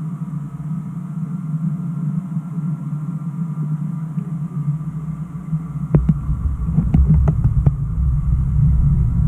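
Model trains running on a layout: a steady hum, then from about six seconds in a louder low rumble with a quick run of sharp clicks as a train draws near.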